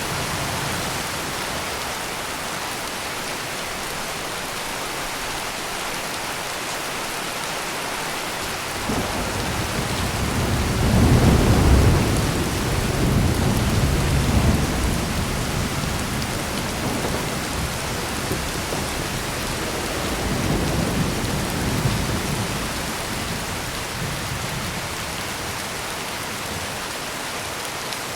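Heavy rain pouring steadily. About nine seconds in, a long, deep roll of thunder builds, is loudest a few seconds later, and rumbles on, fading away over about ten more seconds.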